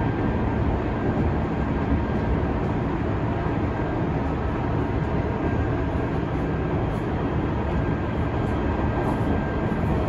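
Tokyu 5000 series commuter train heard from inside the car while running at speed: a steady wheel-on-rail rumble, with a faint steady whine above it.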